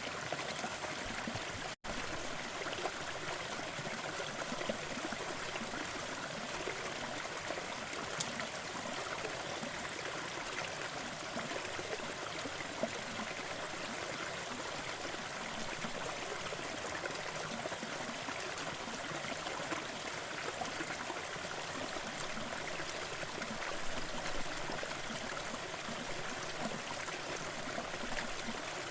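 Waterfall water rushing and splashing in a steady, even wash, with a momentary dropout about two seconds in.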